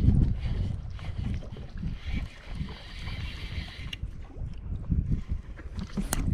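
Gusty wind buffeting the microphone in a strong, steady wind, with a steadier hiss for about two seconds in the middle.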